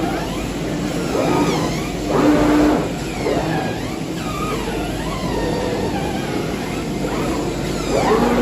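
CNC fabric cutting machine running, its drive motors whining and repeatedly rising and falling in pitch as the cutting head speeds up and slows, with a louder swell about two seconds in and again near the end.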